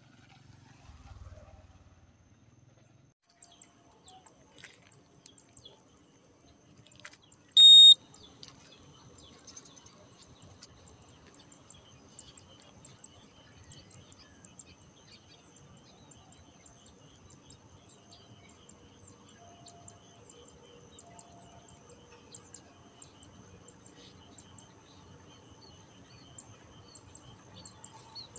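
Birds chirping faintly over a steady high hiss. About seven and a half seconds in there is a single short, loud, high beep.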